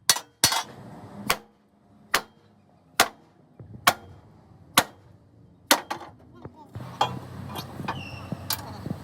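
Hammer blows on metal, single sharp strikes spaced roughly a second apart. A low steady engine-like hum comes in over the last couple of seconds.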